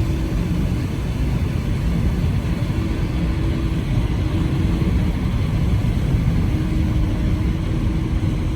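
Car driving, heard from inside the cabin: a steady low rumble of road and engine noise, with a faint hum that comes and goes.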